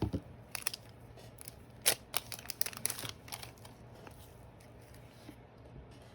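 Trading cards being handled and slid against one another: a run of soft clicks, scrapes and crinkles, the sharpest about two seconds in, thinning out after about four seconds.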